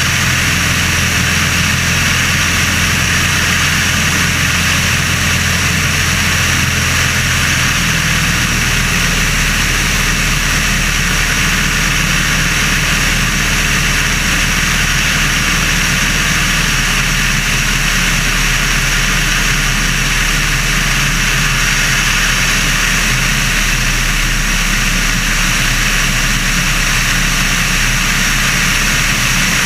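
Sonerai light airplane's Volkswagen-based air-cooled flat-four engine and propeller running steadily during the engine's break-in, with a slight shift in its low tone about eight seconds in.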